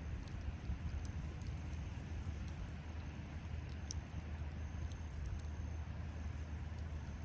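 Wood fire crackling, with scattered sharp pops, over a steady low rumble.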